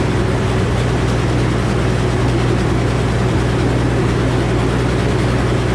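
Old Frick sawmill running steadily, a steady low hum with a broad mechanical noise over it, its large circular saw blade spinning without cutting.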